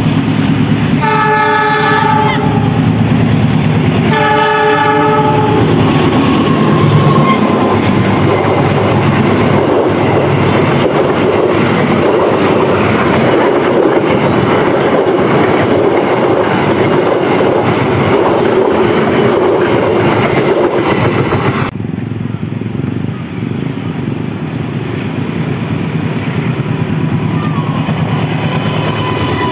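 Diesel locomotive horn sounds two chord blasts, each a second or so long, as a passenger train approaches. The train then runs past close by, its wheels clattering and rumbling on the rails. After a sudden cut, another train is heard passing, duller and quieter, with a faint horn tone near the end.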